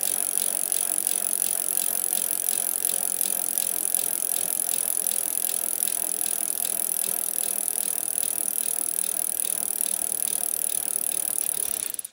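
Rapid, steady mechanical clicking or rattling, played as a standalone sound effect that starts and cuts off abruptly.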